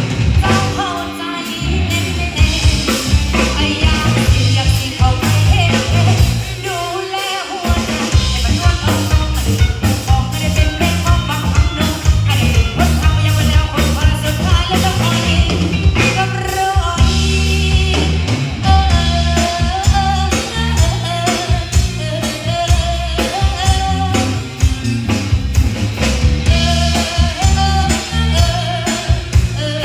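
A band playing a song with a singer, with drum kit and bass underneath.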